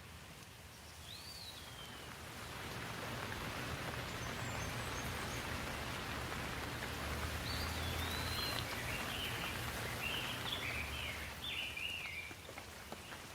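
Rain falling in a steady hiss that builds over the first few seconds and eases near the end, with a bird calling over it: a single chirp about a second in, then a run of short warbling notes in the second half.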